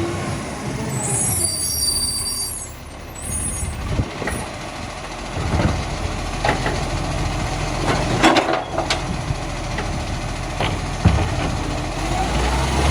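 Side-loader recycling truck with its diesel engine running, a hiss of air about a second in, and a cluster of knocks and clatter around eight seconds in with another knock near the end.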